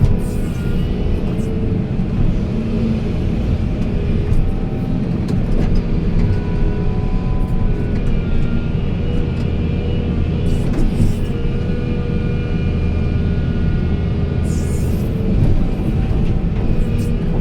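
Heavy diesel machinery engine running steadily with a deep rumble, with a few short hisses.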